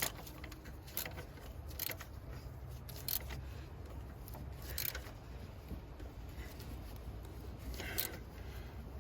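Metal hand tools clicking and scraping against the alternator bracket as its mounting bolt is worked tight with a socket, a few sharp clicks a second or more apart over a steady low rumble.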